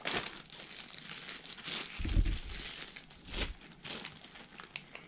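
Crinkly plastic packaging rustling and crackling as it is handled, with a few heavier handling bumps in the middle.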